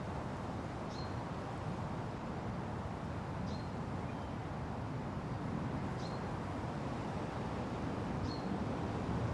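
Steady wind rushing through forest leaves, with a bird giving a short high chirp about every two and a half seconds, four times.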